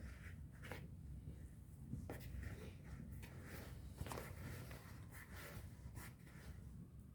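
Faint handling sounds of cooking work: soft rustles, scrapes and a few light taps, over a low steady hum.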